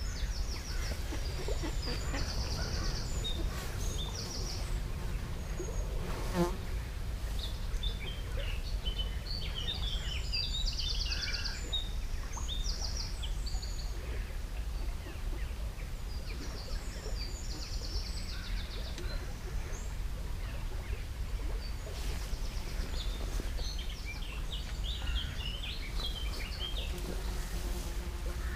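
Small birds singing: scattered short chirps with repeated rapid trills about a second long, over a steady low rumble.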